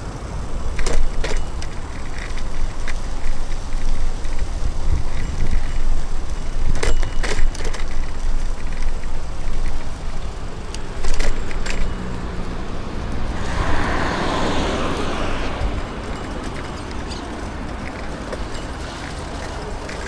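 Street sound heard from a moving bicycle: a steady low rumble with a few sharp rattling clicks. About two thirds of the way through, a motor vehicle passes, its noise swelling and fading over a couple of seconds.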